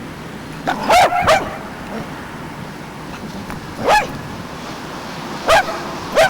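A dog barking: five short, sharp barks, two in quick succession about a second in, one near the middle and two more near the end, over a steady background hiss.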